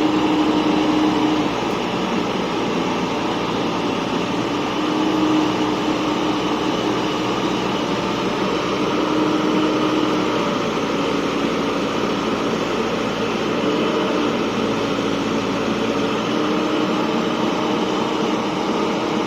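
An engine running steadily, with a thin droning tone that comes and goes several times.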